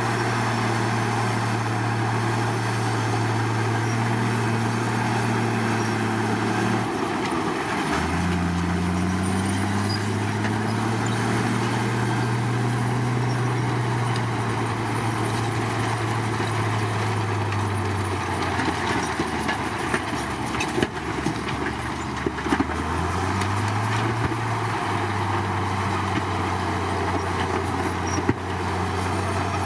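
Komatsu crawler bulldozer's diesel engine running under load over a steady mechanical clatter. The engine note changes as the revs shift, dropping about seven seconds in, climbing again, sagging near eighteen seconds and picking back up about twenty-four seconds in. There are a few sharp knocks along the way.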